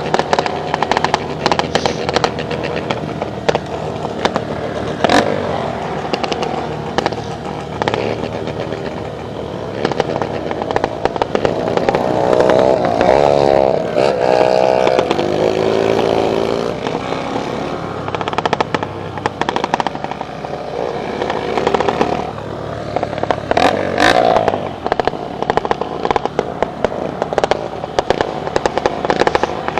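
Several motorcycle engines running and revving, with pitch sweeping up and down, loudest about halfway through, and scattered sharp cracks and pops throughout.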